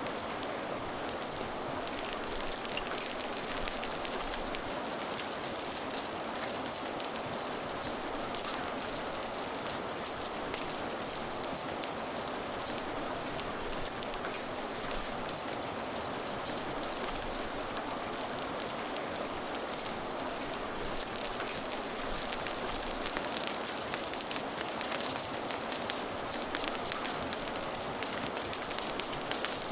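Steady rain falling, with a crackling fire mixed in; a few sharper crackles stand out near the end.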